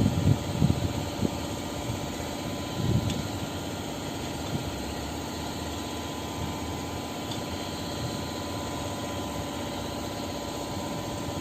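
A steady engine-like mechanical drone, with a few short low bumps in the first second and again about three seconds in.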